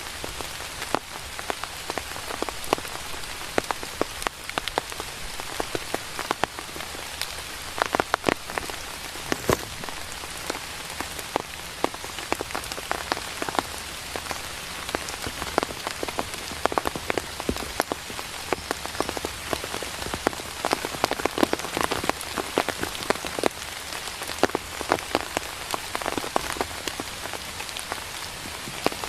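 Steady rain falling, with many separate drops striking nearby surfaces as sharp, irregular taps.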